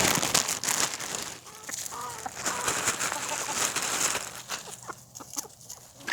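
A flock of chickens clucking as they crowd in for a treat, with rustling and sharp clicks through the first few seconds; it grows quieter after about four and a half seconds.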